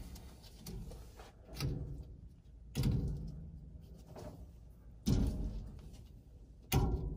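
Sharp knocks and clunks of hand-tool work on a furnace: a softer knock about a second and a half in, then three loud ones about three seconds in, five seconds in and near the end. The work is on a small part that won't come loose.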